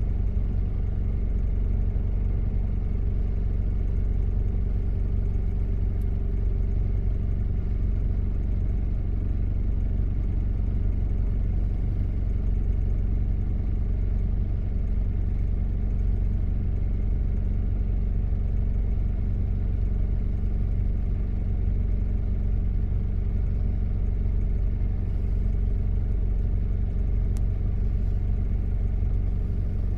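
1993 Toyota Prado's diesel engine running steadily while driving, an even low drone heard from inside the cabin.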